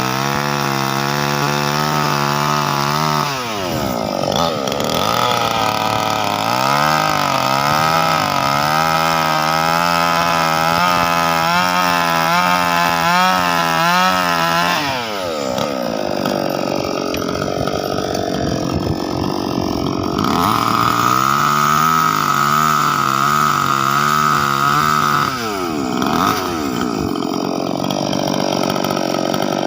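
Small engine driving a chaff cutter, running steadily and then bogging down three times, its pitch dropping sharply before picking back up.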